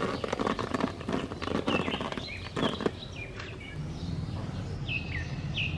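Small wild birds at a feeding spot: a quick run of tapping clicks through the first three seconds, and short chirps that fall in pitch, repeated several times.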